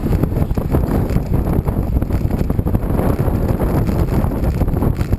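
Wind buffeting the microphone of a camera on a moving bicycle: a loud, uneven rumble that does not let up.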